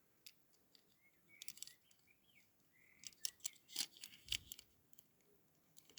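Faint clicks and light scrapes of small diecast toy-car parts being handled and pushed into place, with a couple of brief squeaks; the clicks cluster in the second half.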